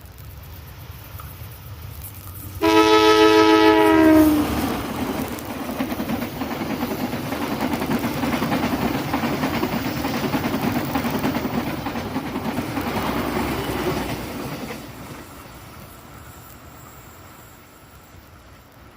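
A diesel locomotive's horn sounds one blast of about a second and a half, a two-note chord that sags in pitch as it cuts off. The train then passes with a steady rumble and clatter of wheels on the rails for about ten seconds before fading away.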